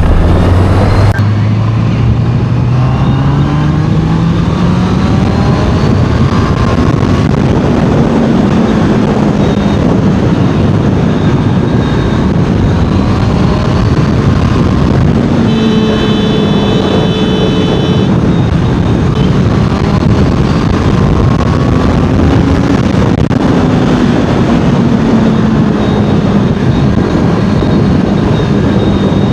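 Honda CBR650R inline-four engine and exhaust under way, climbing steadily in pitch over the first several seconds, then rising and falling with throttle and gear changes, over heavy wind rush at a helmet-mounted mic. A steady high pitched tone cuts in for about two seconds past the middle.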